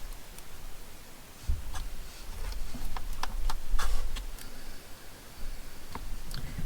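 Tabletop stamping: a cling stamp being tapped on an ink pad and pressed onto paper, giving a few scattered taps and clicks over low dull bumps of handling.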